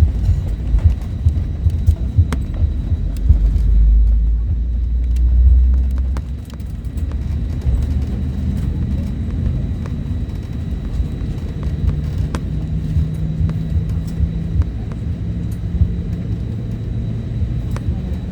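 Low rumble heard inside the cabin of an Airbus A320neo, with scattered knocks, loudest about four to six seconds in. From about six seconds a steady engine hum comes in and edges up in pitch.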